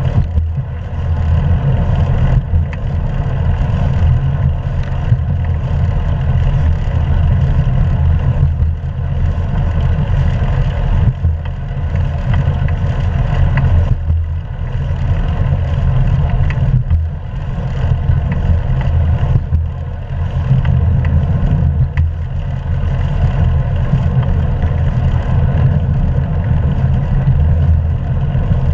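Wind and road rumble on a GoPro 3 action camera's microphone riding on a moving bicycle: a loud, steady, deep rumble with an even rushing hiss above it.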